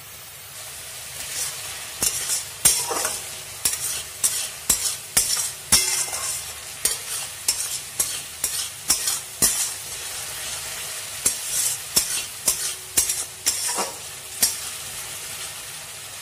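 Spice paste of onion, ginger, garlic and tomato frying in oil in a steel wok, a steady sizzle under repeated sharp scrapes of a metal spatula stirring it across the pan, about one or two a second, thinning out near the end. The paste is being fried down before the spice water goes in.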